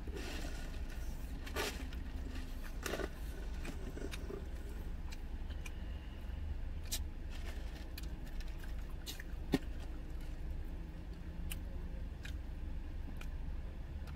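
Close-up eating sounds: chewing, mouth clicks and small rustles as fried chicken nuggets are eaten, with one sharper click about halfway through. A steady low rumble runs underneath inside the car.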